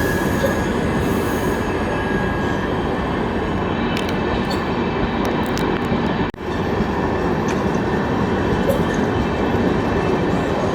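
Passenger express train moving out of a station, with the steady rumble of its coaches rolling over the rails. The sound cuts out for an instant about six seconds in.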